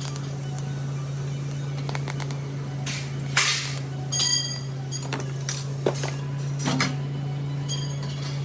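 Steady low electrical hum with scattered metallic clinks and ringing pings of steel pieces knocked together, the loudest about three and a half and four and a quarter seconds in.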